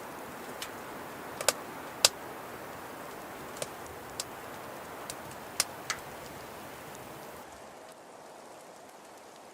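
A steady rain-like hiss with scattered sharp clicks or taps, about nine of them, the loudest about a second and a half and two seconds in. The hiss drops a step in level near the end.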